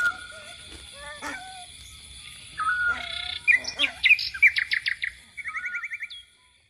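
Birds chirping and trilling, busier and louder in the second half, with quick runs of repeated notes and a steady high tone underneath; it stops shortly before the end.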